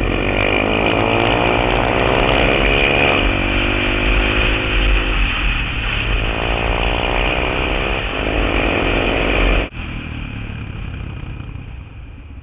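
Supermoto motorcycle engine accelerating hard, its note rising through the revs twice as it pulls through the gears, with wind noise on the helmet mic. About ten seconds in the throttle snaps shut and the engine drops to a much quieter run as the bike slows.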